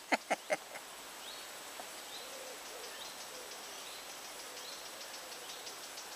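Faint birdsong: three quick calls right at the start, then a short high note repeated about once a second over a quiet background hiss.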